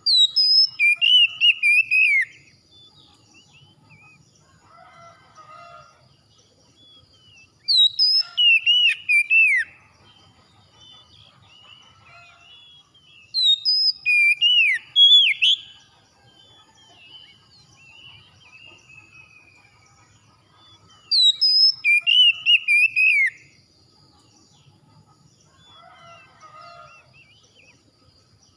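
A songbird sings loud whistled song phrases full of rapid up-and-down sweeps, each about two seconds long, four times about every six to seven seconds. Faint chirps sound in the pauses.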